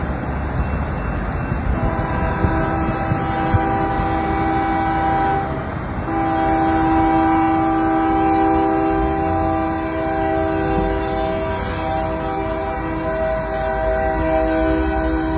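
Locomotive air horn sounding a long chord of several tones at once, starting about two seconds in and briefly breaking off about five and a half seconds in before sounding again, over the low rumble of the moving train.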